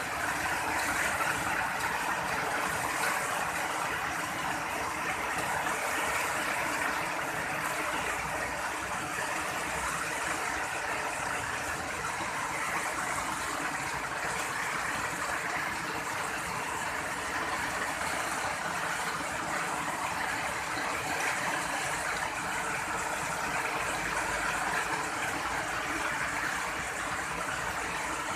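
Steady rain falling, a continuous even hiss, with a faint steady hum underneath.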